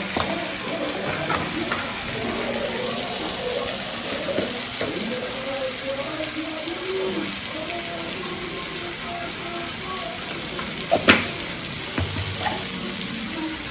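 Food frying in hot oil in a pan with a steady sizzle, and a sharp utensil knock about eleven seconds in.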